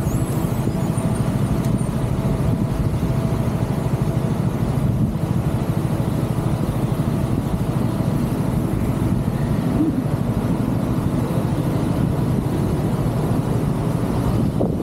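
Motorcycle engine idling steadily while the bike stands at a traffic stop, heard close up from a camera mounted on the bike.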